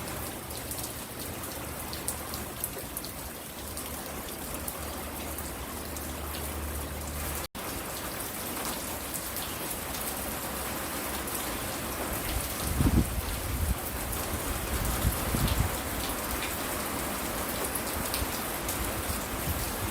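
Steady rain falling, with many individual drops tapping on hard surfaces. The sound cuts out for an instant about seven seconds in, and a few dull low thumps come in the second half.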